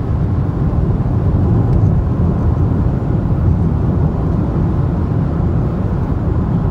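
Steady rumble of a car driving on the road, engine and tyre noise heard from inside the cabin.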